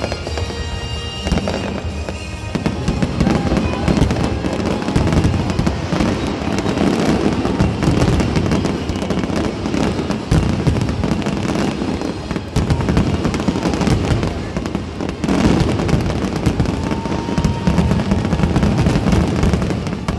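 Fireworks display: aerial shells and rising comets bursting in a dense, rapid barrage of bangs and crackles, getting heavier about two seconds in.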